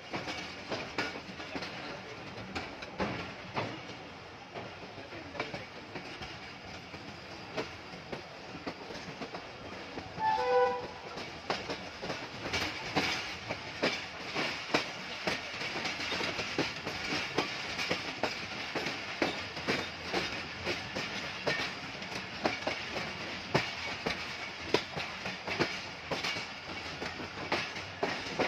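Wheels of a moving passenger train clattering over rail joints, the clicks growing louder and quicker from about twelve seconds in as the train picks up speed. A short train horn blast sounds about ten seconds in.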